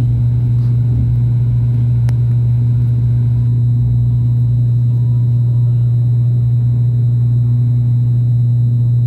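Steady propeller drone and engine noise of a twin turboprop airliner, heard from inside the cabin at climb power, with a deep, even hum throughout.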